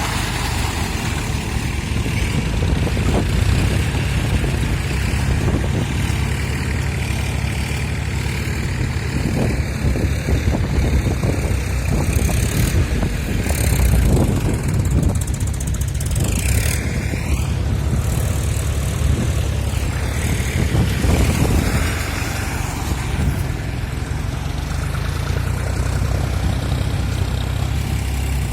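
Tractor engine running steadily, with a continuous low engine note.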